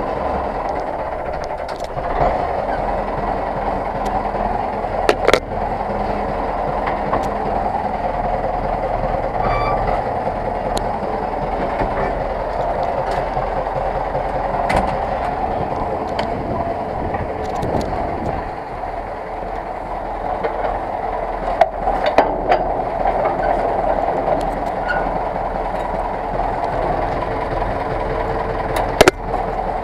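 Zetor 6911 tractor's four-cylinder diesel engine running steadily, with metal rattling and a few sharp clanks, the loudest near the end.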